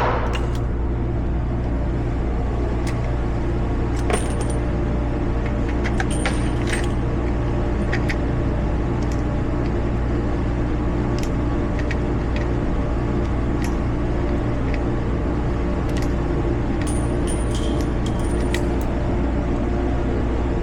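Scattered small metallic clicks and clinks, some with a short high ring, typical of a revolver and its brass cartridges being handled between shots. A steady low rumble runs underneath.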